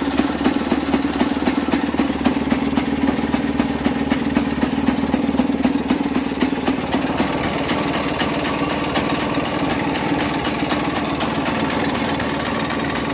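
Freshly overhauled Tula Muravey two-stroke single-cylinder engine idling steadily in neutral, holding its idle evenly.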